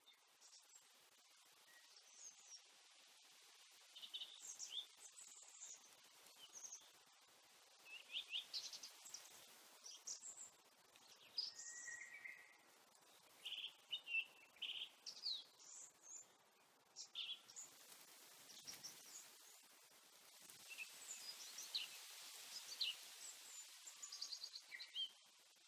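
Small birds chirping and twittering, many short high calls scattered throughout, over a quiet, faint steady outdoor background hiss.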